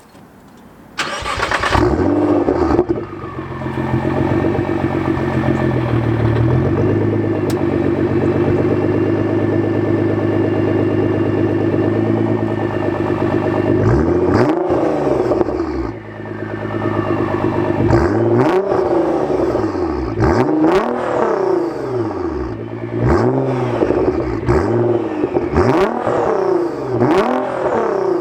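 Straight-piped R35 Nissan GT-R's twin-turbo 3.8-litre V6 exhaust. It comes in loud about a second in and holds a steady note, stepping down slightly after a few seconds. From about halfway it is blipped in a series of sharp static revs, each rising and falling back.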